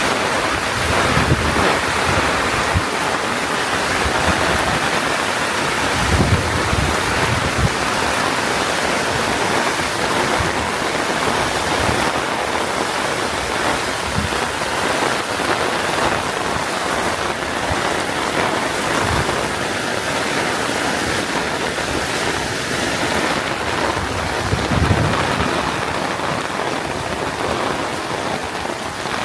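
Heavy rain pouring steadily, a dense even hiss of downpour, with a few short low thumps now and then.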